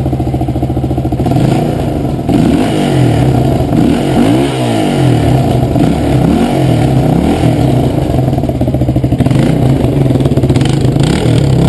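Suzuki DR350S's single-cylinder four-stroke engine running. It is blipped up and down several times in the middle, then settles back to a steady idle.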